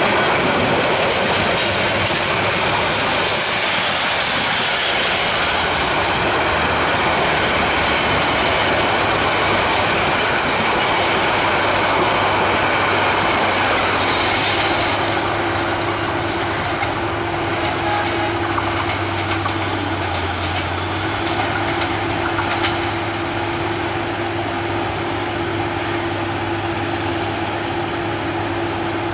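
Coaches of a metre-gauge passenger train running past, their wheels clattering over the rail joints. The rumble eases a little after about fifteen seconds as the train draws away, and a steady hum comes in about ten seconds in and carries on.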